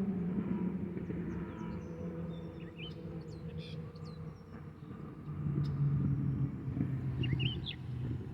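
A steady low motor hum, dropping a little in pitch and growing louder about five and a half seconds in, with a few short bird chirps over it.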